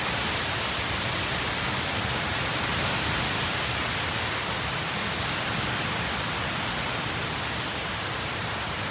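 Heavy storm rain pouring down, a steady dense hiss that holds level throughout.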